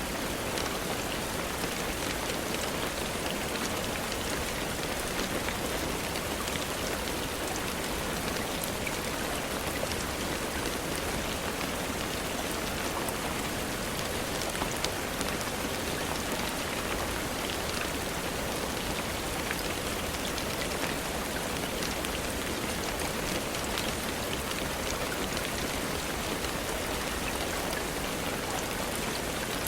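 Steady rain falling on a surface, an even hiss with many fine scattered drop ticks.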